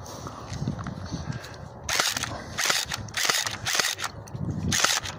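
Airsoft guns firing about five short bursts, starting about two seconds in.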